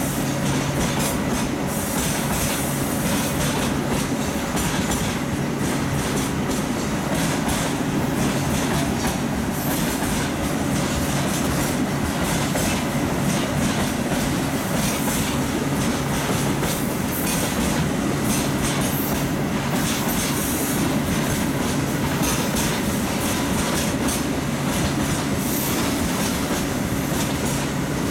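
Freight train wagons rolling past steadily, their wheels clicking and clattering over the rail joints.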